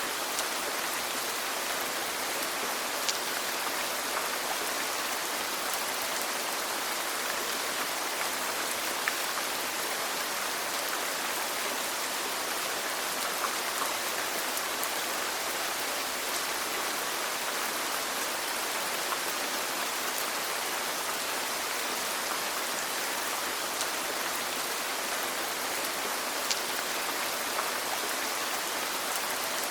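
Steady rainfall: an even hiss of rain with individual drops pattering and ticking on a surface.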